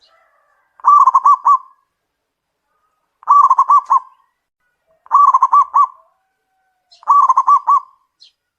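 Zebra dove (perkutut) cooing: four short phrases of quick, rolling coo notes, each under a second long and about two seconds apart.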